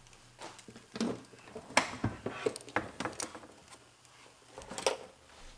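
Rear hatch of an AE86 Corolla being unlatched and lifted open: a scattered run of clicks and knocks, the sharpest about two seconds in and again near the end.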